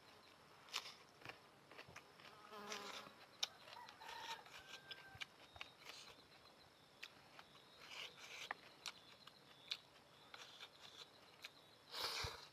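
Quiet mouth sounds of eating noodles: scattered small clicks and smacks of chewing, with a short slurp near the end.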